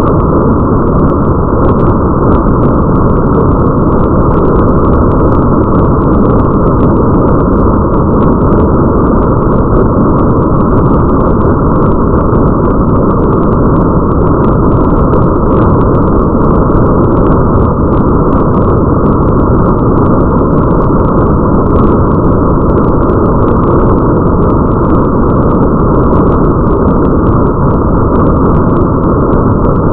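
Steady, heavily muffled rain ambience: a dense, even hiss with all the high end cut away and faint scattered drop ticks above it. It is loud and does not change.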